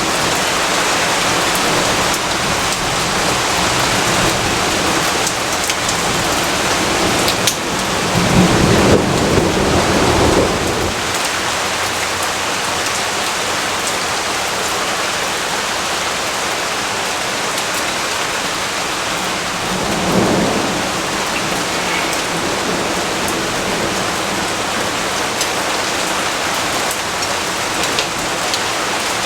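Steady heavy rainfall with a roll of thunder swelling about eight seconds in and lasting a few seconds, then a shorter, weaker rumble around twenty seconds.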